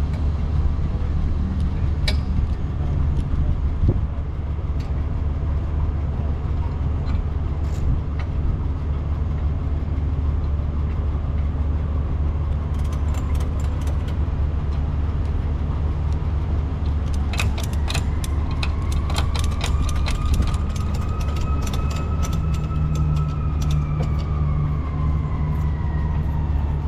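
Tow truck running with a steady low engine drone. About two-thirds of the way in, a whine rises slowly and then falls off in pitch, mixed with quick rattling clicks.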